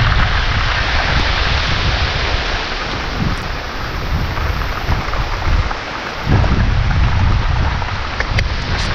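Heavy rain pouring steadily, with a low rumble underneath that drops away briefly a little past halfway and then returns.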